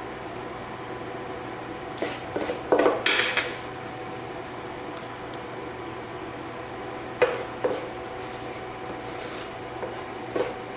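A spoon scraping sticky dumpling dough in a bowl as it is scooped and dropped onto the casserole, in short scrapes about two seconds in, about seven seconds in and near the end, over a faint steady hum.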